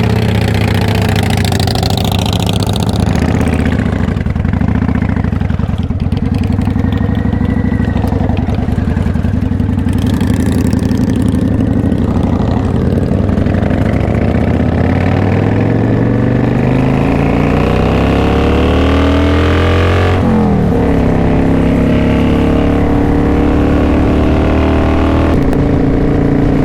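Cruiser motorcycle V-twin engines running under acceleration on the road. The engine pitch climbs steadily, drops sharply about twenty seconds in at a gear change, then climbs again.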